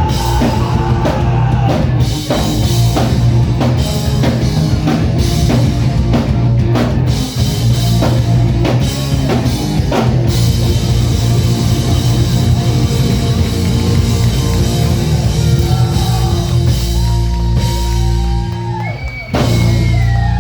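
Live rock band playing an instrumental passage with no vocals: heavy drum kit, bass and guitar. The drum hits stop about halfway through while the chords ring on, and a loud final hit comes near the end.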